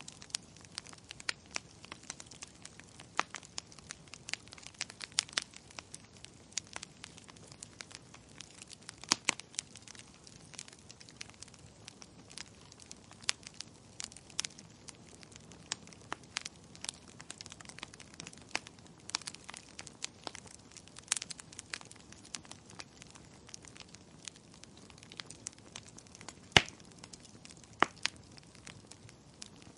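Wood fire crackling: a soft steady hiss with frequent irregular sharp pops and snaps, a few much louder than the rest.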